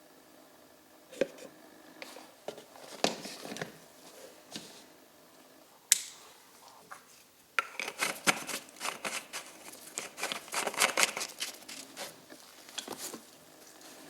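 Hands working with small hard parts of the oil-film tester: scattered clicks and taps, a sharp click about six seconds in, then a dense run of rapid clicking and scraping for several seconds.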